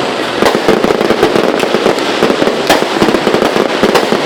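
Fireworks going off in a dense, continuous crackle of rapid pops, with a few sharper bangs standing out, about half a second in, near the three-quarter mark and near the end.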